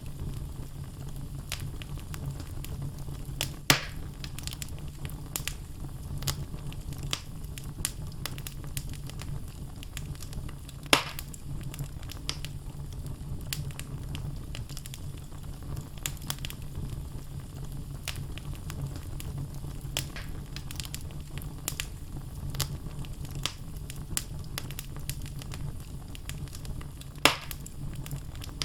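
Wood fire burning in a fireplace: a steady low rumble of flame with frequent crackles from the logs and three louder pops.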